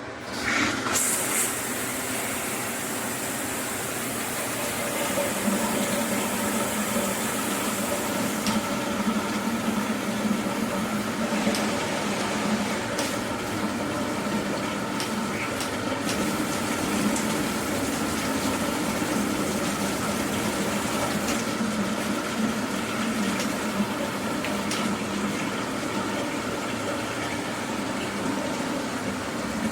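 Water running in a steady stream, starting abruptly about half a second in.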